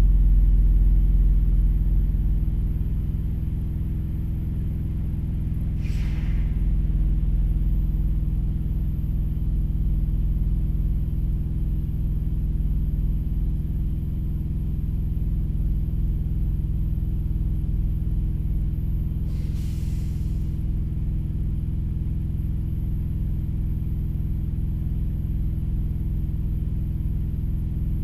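Engine idling steadily with a low rumble, heard through the cab, with two short hisses: one about six seconds in and one about twenty seconds in.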